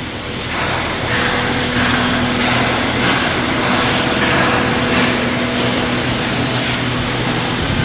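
Steady machinery noise with a low hum and a faint high whine in the middle, from shipyard equipment at work.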